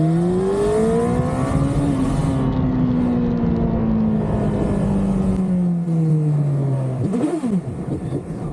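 Motorcycle engine pulling away: the revs climb for about two seconds, then fall slowly as it eases off. Near the end there is a quick rev up and back down.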